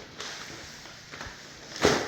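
A single sharp knock near the end, over faint background hiss.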